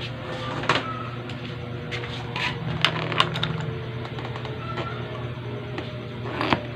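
Scattered sharp clicks and light knocks of tools and parts being handled as a motorcycle's parts are refitted, over a steady low hum.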